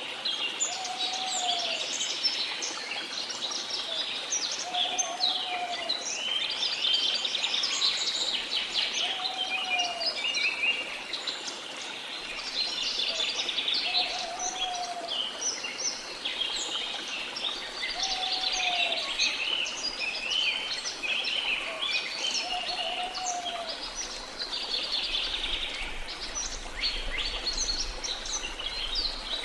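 Dense chorus of many jungle birds chirping and calling, with one low, arched whistled call repeating about every four seconds, over a steady rush of falling water.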